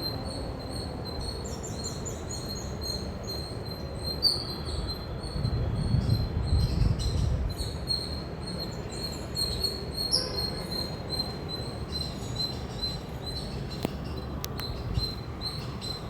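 Indian palm squirrel chirping: a long run of short, high-pitched chirps repeated several times a second. A low rumble comes in about halfway through and fades after a couple of seconds.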